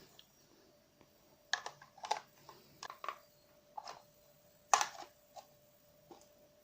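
Irregular plastic clicks and knocks from handling the robot vacuum-mop's removed two-in-one dust compartment and water tank, the loudest about five seconds in. A faint steady tone sounds beneath.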